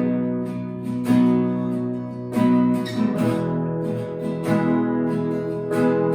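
Acoustic guitar strumming sustained chords in a steady rhythm, with a few heavier accented strokes, and no singing.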